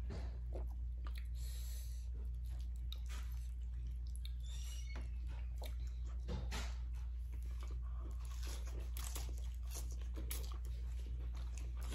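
Close-up chewing and crunching of food such as fish wrapped in lettuce, with many small irregular clicks and crunches over a steady low hum.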